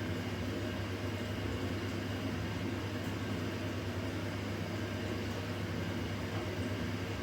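Washing machine running with a steady, even hum and no change in level.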